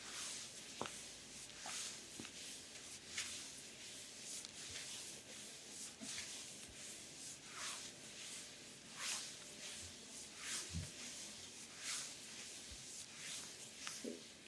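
Hands rubbing and stroking oiled skin during an abdominal massage: soft, repeated rubbing strokes, about one every second and a half, with a few small clicks.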